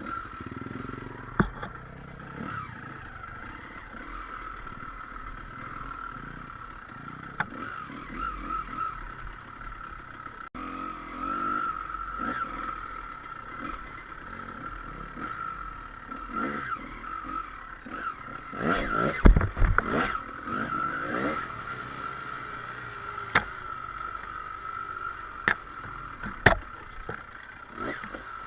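Trail motorcycle riding over rough dirt, its engine running steadily under scattered knocks and clatter from the bike hitting bumps. A cluster of louder heavy thumps comes about two-thirds of the way in.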